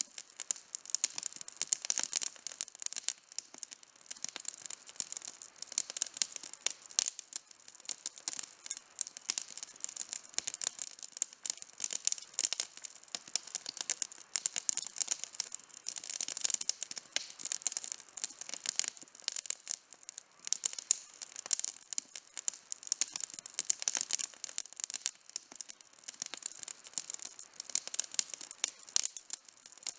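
Campfire crackling: a dense, continuous run of small sharp pops and snaps from burning wood, with no low rumble beneath.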